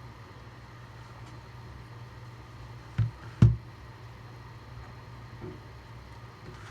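Two short, hard knocks about half a second apart, the second louder, over a steady low hum.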